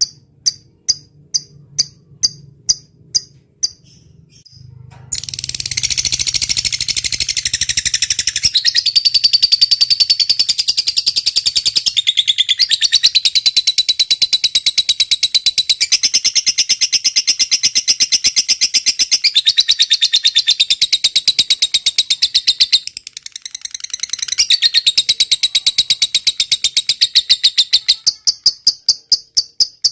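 Lovebird singing a long, continuous, high-pitched chattering trill that begins about five seconds in and runs for over twenty seconds, with a brief break near the end. Steady cricket chirps, about two a second, are heard at the start and again at the end.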